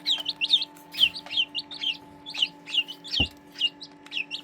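Chicks peeping continually: short, high peeps that fall in pitch, about three or four a second, over a steady low hum. A single low thump about three seconds in.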